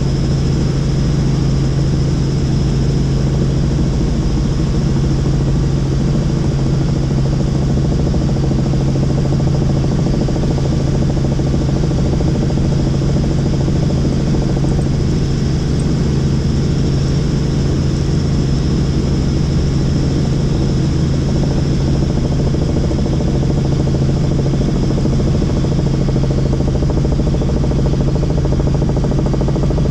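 Helicopter in cruise flight: steady rotor and engine noise with a constant low hum and a thin high turbine whine.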